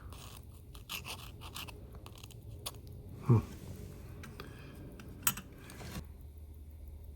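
Faint scratching and scraping of small watchmaker's tools and fingers handling a tiny watch movement, with a few sharp little clicks. A brief low vocal sound about three seconds in.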